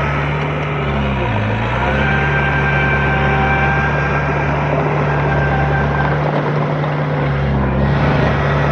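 Heavy diesel engine of earthmoving machinery running steadily; its note dips briefly about a second and a half in and recovers. A high whine sounds over the middle few seconds.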